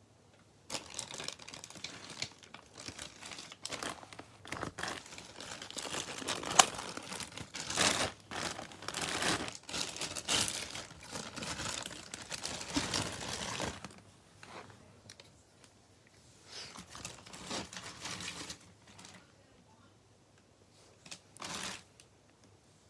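Speaker packaging being unwrapped: wrapping crinkling and tearing in irregular bursts, busiest in the first fourteen seconds with a sharp snap about six and a half seconds in, then quieter, sparser rustles and one short burst near the end.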